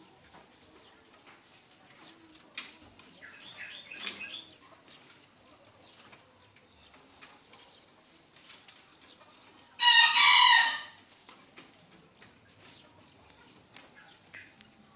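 A bird gives one loud call about ten seconds in, lasting about a second, amid faint scattered clicks and rustles.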